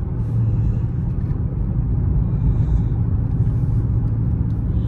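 Dodge Charger Scat Pack's 6.4-litre HEMI V8 running steadily on the move: an even, low engine rumble.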